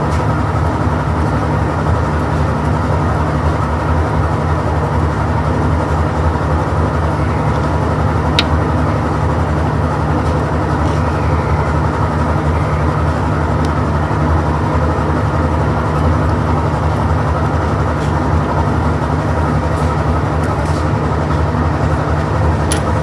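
A loud, steady mechanical drone with a low hum that never changes, and a few faint clicks over it.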